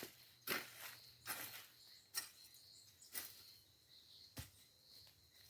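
Slow footsteps, about five steps roughly a second apart, over a steady high insect hum.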